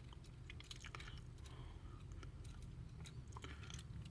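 Faint scattered small clicks and taps of an HO scale model locomotive being handled and turned over in the hands, over a steady low hum.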